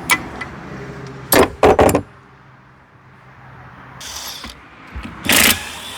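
Hammer striking the metal of a boat's Alpha 1 stern drive: a loud knock about a second and a half in, two quick knocks right after, and another heavier strike near the end.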